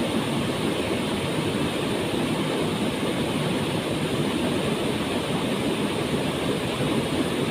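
Waterfall: water falling and crashing into a pool, a steady full rush.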